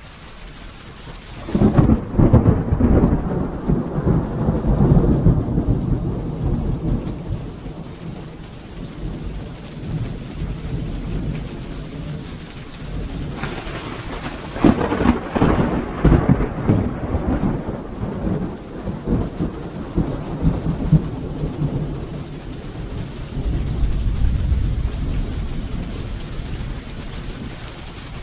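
Thunder rumbling over steady rain: a rolling peal starts about a second and a half in and dies away over several seconds, a second crackling peal breaks about thirteen seconds in and rolls on, and a low rumble swells again near the end.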